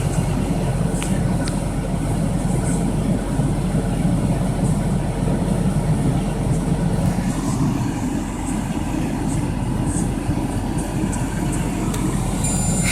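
Steady low rumble of an idling vehicle engine, heard from inside the parked vehicle's cab.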